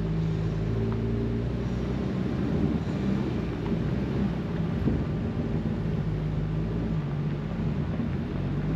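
A vehicle engine running at a steady pace under way, with a steady low drone and road rumble, most likely one of the Jeeps on the ride.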